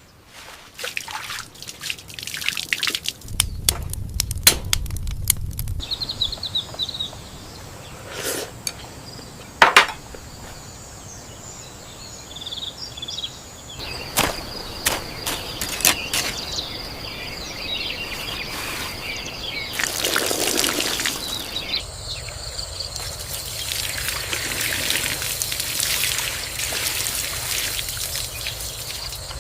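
Outdoor forest sounds with water trickling, a few bird chirps, and scattered sharp clicks and rustles. A steady high whine holds for several seconds in the middle.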